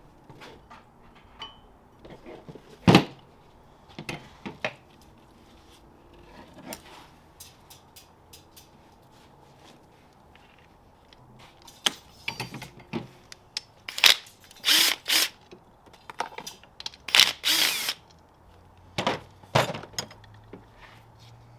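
Tools working on an engine during assembly: scattered metal clicks and knocks, a sharp knock about three seconds in, and a run of short, loud bursts of tool noise between about twelve and eighteen seconds in as fasteners are worked in.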